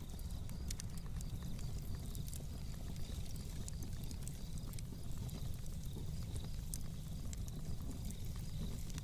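Fireplace fire crackling: scattered, irregular sharp pops and snaps over a steady low rumble.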